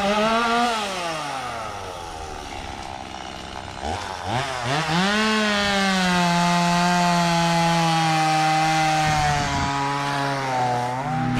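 Two-stroke chainsaw revving: it winds up and falls back right at the start, then revs up again about four seconds in and holds fairly steady high revs for several seconds, as if under load in a cut, before dropping near the end.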